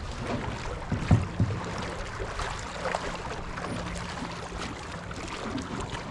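Wind on the microphone and water lapping, with a few sharp knocks about a second in.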